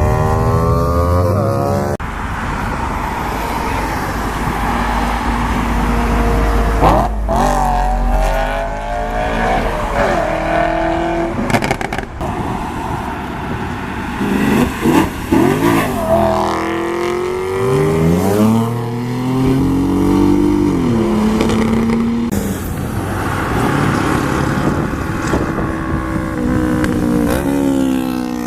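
Sports car engines revving and accelerating, their pitch rising and falling again and again, with sudden jumps between different engines.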